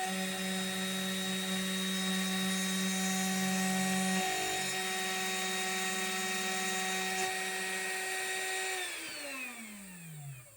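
CNC mill spindle with a 1/8-inch end mill running at a steady high whine over a hiss. About nine seconds in, the pitch slides steadily down as the spindle winds down at the end of the final profile cut in acrylic.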